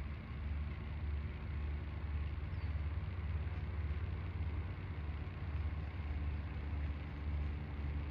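A steady low motor hum, engine-like, running without change.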